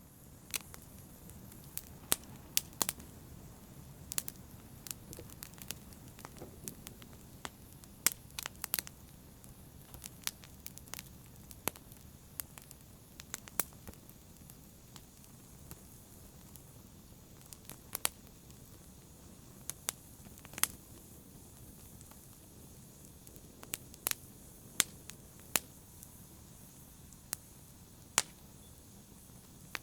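Fire crackling: irregular sharp pops and snaps, a few every second or two, over a low steady rush of flame.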